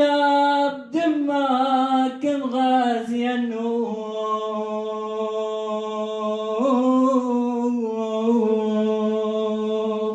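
A man's solo voice singing an Assyrian Aramaic Good Friday hymn, with no instrument heard. Short ornamented phrases give way, about four seconds in, to one long held closing note.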